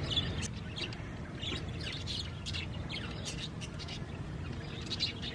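Budgerigars chirping: a run of short, high chirps, one after another without a steady rhythm.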